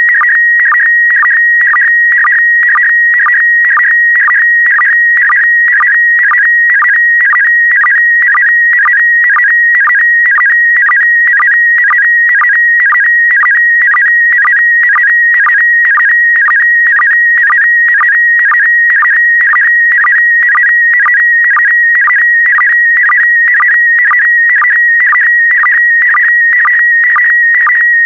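PD120 slow-scan television (SSTV) signal: a warbling electronic tone around 2 kHz carrying the picture lines, broken by short lower-pitched sync pulses at an even rate of about two a second.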